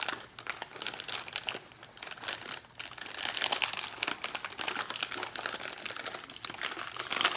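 Plastic snack bag of bacon-flavoured nuts crinkling as it is handled and opened: dense, irregular rustling and crackling, with one louder crackle near the end.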